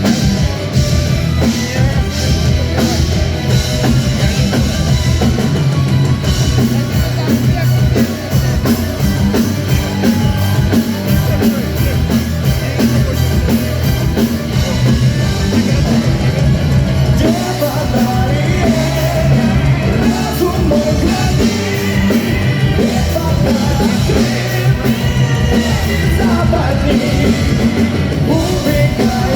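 Live metal band playing loud and steady: a busy drum kit over heavy guitars and bass.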